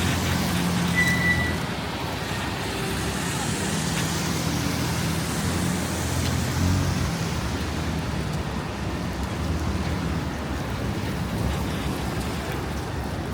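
Midtown street traffic: vehicle engines running and idling with a steady low hum under road noise, and a brief high squeal about a second in.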